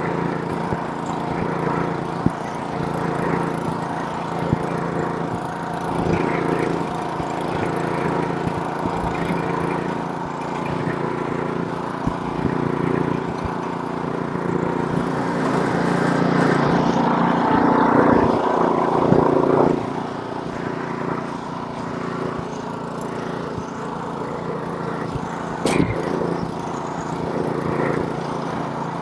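Small gasoline snowblower engine running steadily at an even pitch. About halfway through it grows louder and rougher for a few seconds, then settles back. A single sharp click comes near the end.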